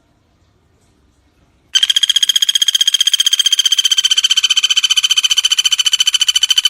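Pelatuk bawang (common flameback woodpecker) giving one long, rapid, even trill, a fast run of identical notes that starts about two seconds in and cuts off sharply.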